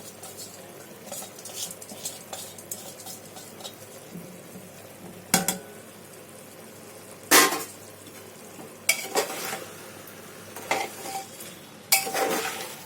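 A metal spoon stirring and scraping rice and chicken masala in a pressure-cooker pot, with a few sharp clinks against the pot's side, the loudest about halfway through and a run of them near the end. A faint sizzle of the frying masala runs underneath.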